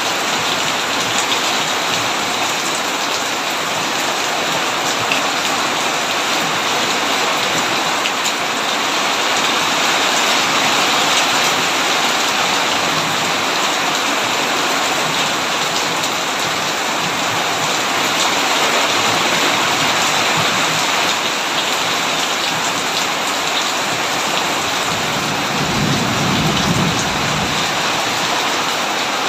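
Heavy rain drumming steadily on a tin roof, with a brief low rumble of thunder near the end.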